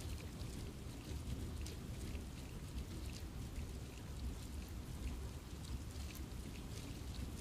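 Steady rain falling in a forest, with many separate drops ticking on leaves and surfaces over a low rumbling wash.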